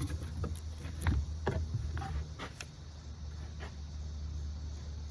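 Scattered light knocks and clicks of parts being handled and fitted together while a homemade filter box is assembled, a few seconds apart, over a low steady hum.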